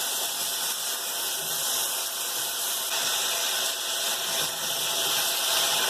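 Cauliflower florets and potatoes sizzling in hot oil and tomato-onion masala in a pan, a steady hiss.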